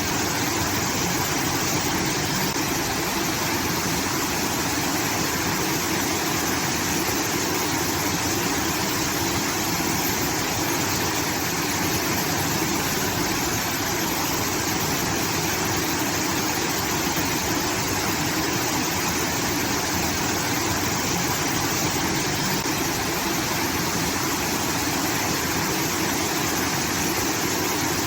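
Water from a rice-field irrigation system pouring and splashing down in a steady, unbroken rush like a small waterfall.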